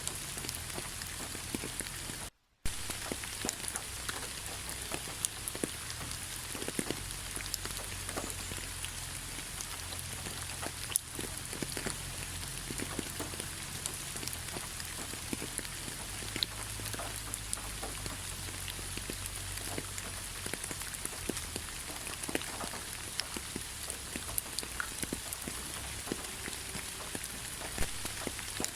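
Steady rain falling, with many separate drops striking close by over an even hiss. The sound cuts out completely for a moment a little over two seconds in.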